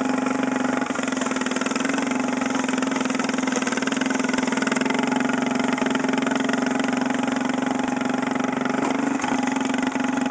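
Small weed-eater engine on a lawn mower, fitted with an oversized exhaust, running at a steady speed.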